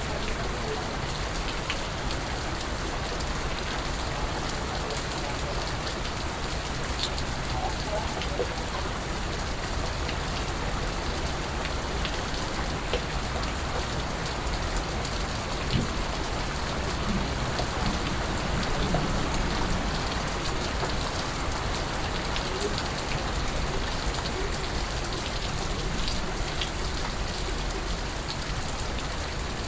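Steady rain falling on a surface, an even hiss with scattered individual drips and drop ticks.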